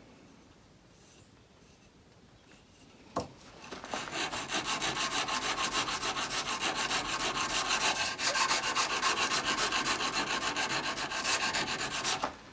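A heavily rusted, pitted old steel chisel rubbed back and forth on an abrasive sharpening surface, in rapid even strokes of about four or five a second. It starts after a single click about three seconds in and stops just before the end.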